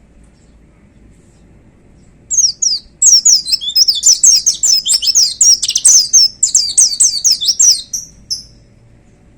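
White-eye (pleci) singing a loud, fast song of rapid high falling notes. It starts about two seconds in with a short phrase, runs on without a break, and stops about a second before the end.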